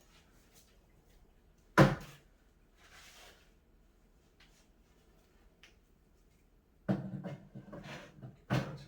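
Cat-tower parts being handled and fitted together: one sharp knock about two seconds in, then a run of knocking and rubbing near the end with a second sharp knock.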